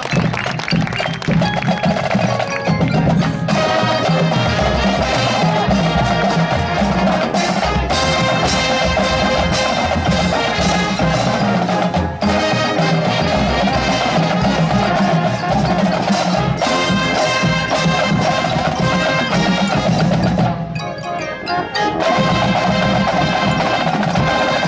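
High school marching band playing, with drums and mallet percussion prominent. The music thins briefly about twenty seconds in, then returns full until it stops near the end.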